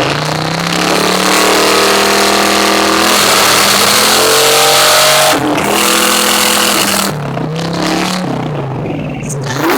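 Car engine revved up and held at high revs for about four seconds. It dips briefly, is held up again, then falls back toward idle about seven seconds in.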